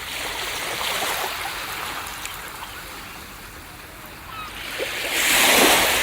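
Ocean waves on a beach: surf washing and hissing, easing off in the middle, then a wave breaking about five seconds in, the loudest moment.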